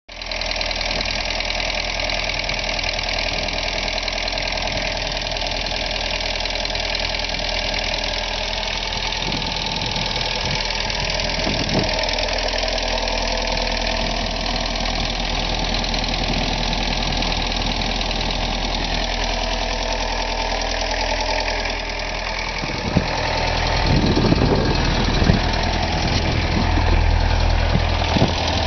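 1985 VW Jetta 1.6-litre four-cylinder diesel running with a steady ticking, a noise whose cause the owner doesn't know. It gets somewhat louder about two-thirds of the way through.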